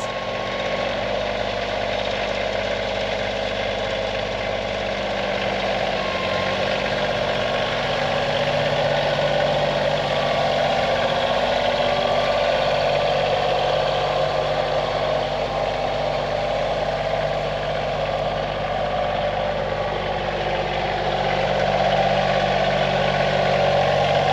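Kioti CK2610 compact tractor's three-cylinder diesel engine running steadily. Its pitch and level rise a little about a third of the way through and again near the end as it is throttled up.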